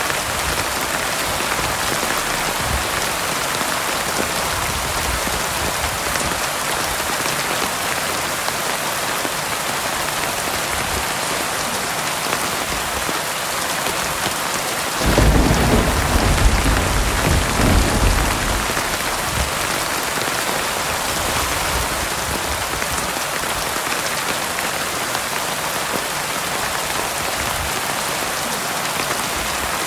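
Heavy rain falling steadily on a surface, with a rumble of thunder that starts suddenly about halfway through and dies away over about four seconds.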